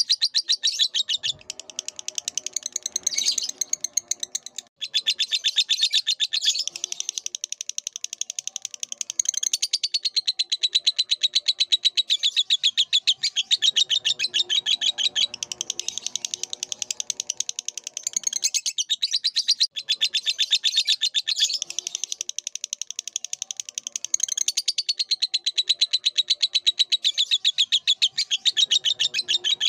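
Lovebird singing a long, rapid chattering trill of high chirps, with brief breaks about five seconds in and again near twenty seconds.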